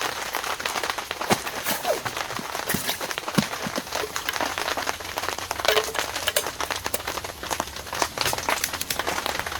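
Heavy rain falling, a dense steady patter of drops striking a surface.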